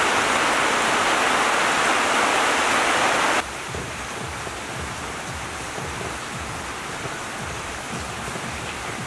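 Steady rain falling. For the first three seconds or so it is a loud, dense hiss, then it cuts suddenly to softer rain with small low drip taps.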